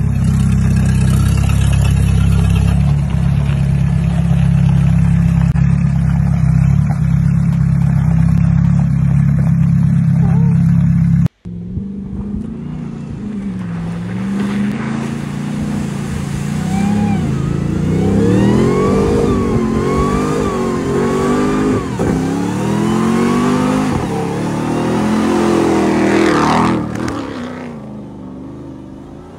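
A Peugeot 205 on oversized tractor tyres driving, its engine running with a steady low drone. After a sudden cut about eleven seconds in, a pickup truck's engine revs up and down again and again as it drives through mud and water, fading out near the end.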